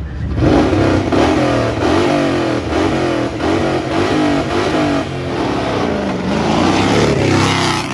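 Engine of an orange Mercedes-badged off-road race pickup revved on the start line in quick repeated blips, its pitch swinging up and down over and over.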